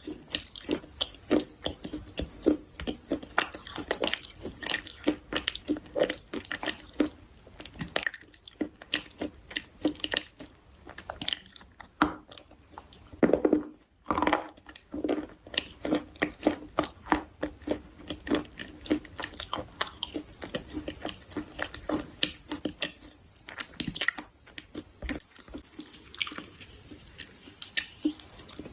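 Close-up chewing and biting of crunchy food: a continuous, irregular run of short sharp crunches and crackles, several a second.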